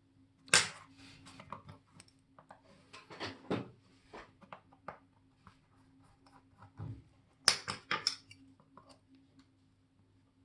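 Small metal watchmaking tools clicking, tapping and scraping against watch parts. A sharp click comes about half a second in, a cluster of light taps and scrapes around three to three and a half seconds, and another sharp burst of clicks near seven and a half seconds, all over a faint steady hum.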